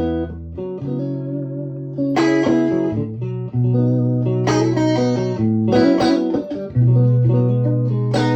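Electric guitar played through a 2004 Victoria 35310 tweed amp, a Fender 5E7 Bandmaster clone with three Jensen P10R 10-inch speakers, with the stock 12AY7 preamp tube in V1. Chords are struck and left to ring, with a new chord every second or so.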